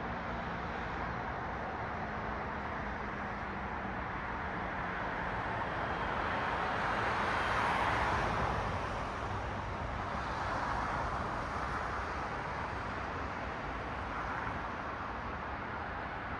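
Cars passing on a road: a steady wash of traffic noise, with one car's tyre and engine noise swelling to its loudest about halfway through and fading, and two smaller passes after it.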